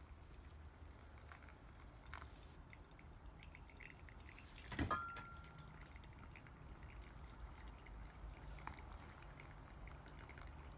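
Quiet room tone with faint small clicks, and about halfway through one sharper clink followed by a brief ringing tone.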